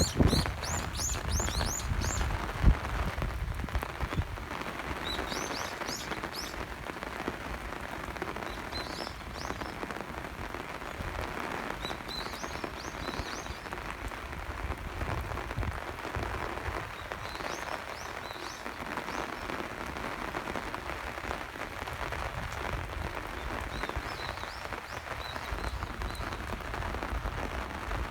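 Steady rain falling, with small birds chirping in short high phrases every second or two. A few low thumps and some rumble in the first three seconds.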